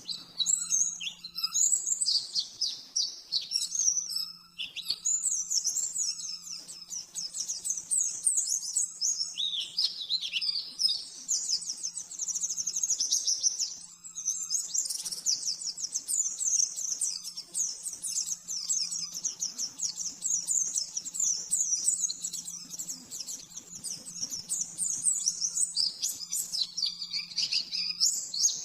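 White-eye (pleci) singing a rapid, continuous high-pitched chattering warble in long fast runs, with brief breaks about four seconds in and again around fourteen seconds. A faint steady low hum runs underneath.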